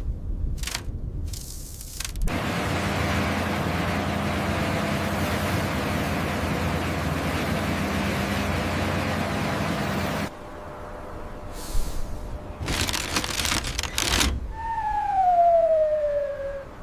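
A machine running steadily for several seconds with a low hum, then stopping abruptly. A few short scraping bursts follow, and near the end a squeal falls in pitch.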